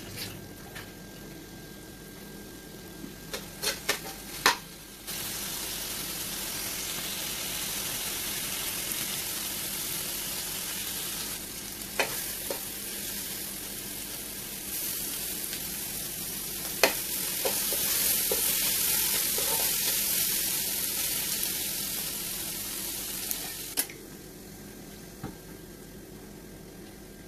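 Minced mutton keema sizzling in hot oil in a steel pot, with a few sharp clicks of a spoon against the pot. The sizzle starts suddenly about five seconds in and cuts off near the end.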